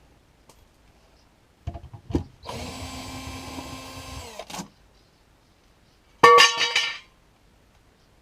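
A power tool, as used to undo bolts while pulling the engine, runs steadily for about two seconds after a few clicks and stops. After a short pause it gives a louder, shorter burst of under a second.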